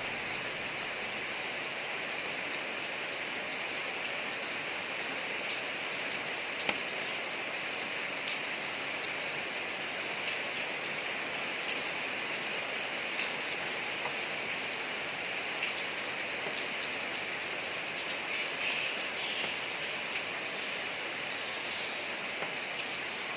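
Steady rain falling on a street: an even hiss with scattered sharper drop ticks, one a little louder about seven seconds in.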